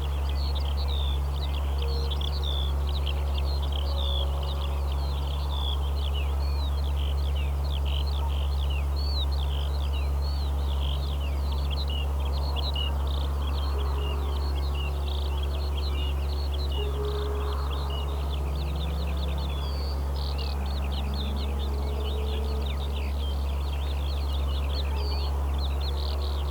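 Many birds calling at once in a dense chorus of short, quick chirps, several a second, over a steady low hum.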